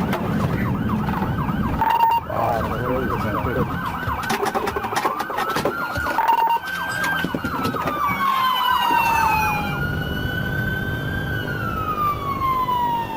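Emergency vehicle sirens: a fast yelp for the first few seconds, then slow wails rising and falling, with two sirens overlapping later on. Two short steady beeps come about two and six seconds in.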